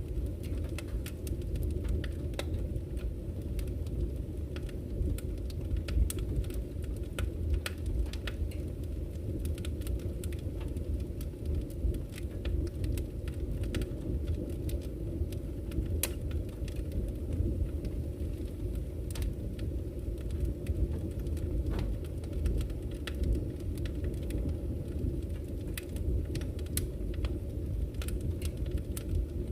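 Campfire crackling, with frequent irregular sharp pops and snaps, over a steady low rush of flowing river water.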